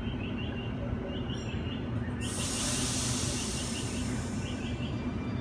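Sydney Trains M set (Millennium) double-deck electric train pulling out of the platform with a steady low rumble. About two seconds in, a sudden loud burst of hissing air starts and fades away over a couple of seconds.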